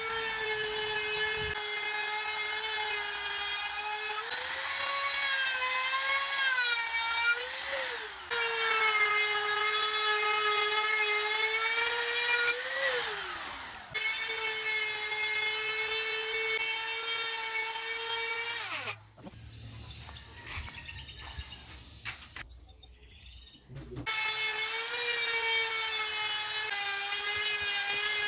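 Electric power tool running with a steady high motor whine, twice let off so it winds down in pitch and then started again. About two-thirds of the way through it stops for a few seconds and then starts up again.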